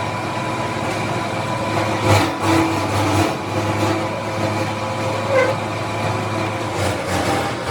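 Tyre-factory machinery running with a steady hum, with a few short knocks and clanks.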